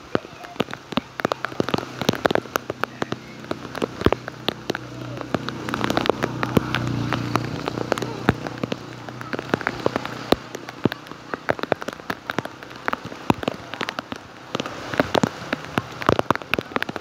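Rain falling, with many sharp drop impacts close by over a steady hiss of rain. A low rumble swells and fades around the middle.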